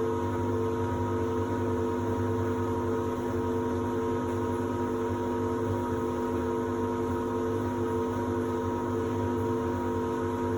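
Samsung WD70T4047CE washer-dryer running, a steady hum with several fixed tones that holds level throughout.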